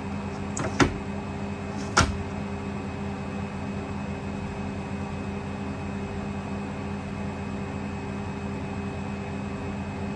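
Hoover Electra 530 washing machine in its 800 rpm spin, running with a steady hum, with two sharp knocks about one and two seconds in.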